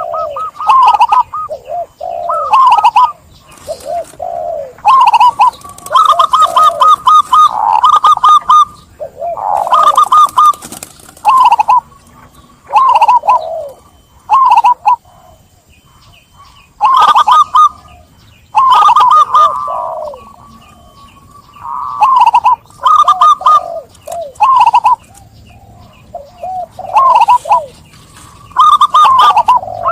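Zebra dove (Javanese perkutut) cooing: repeated phrases of quick staccato coo notes, some higher and some lower, in bursts of a second or few with short pauses between.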